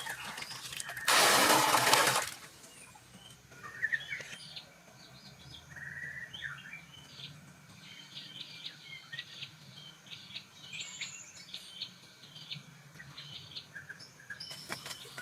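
Birds chirping, many short high calls over a quiet background. About a second in, a loud rush of noise lasts about a second, and another begins near the end.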